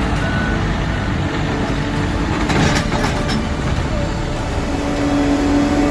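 Heavy road-paving equipment engines running steadily. A reversing beeper sounds at the very start, and there is a short hiss about two and a half seconds in.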